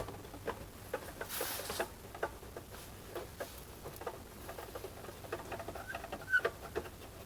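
Light, irregular clicks and rattles of a boombox's plastic casing and small parts being handled during disassembly, with a brief rasp about a second and a half in.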